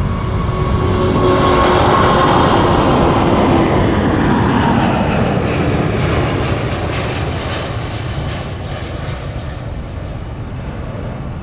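Jet airliner passing close by. Its engine whine and rumble are loudest about two seconds in, then drop in pitch as it goes past and slowly fade.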